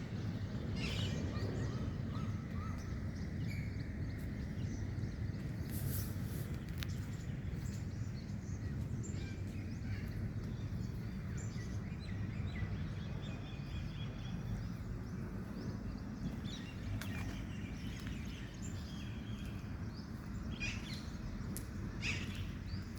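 Outdoor ambience: scattered bird chirps and calls over a steady low rumble, with a couple of brief sharper sounds near the middle and near the end.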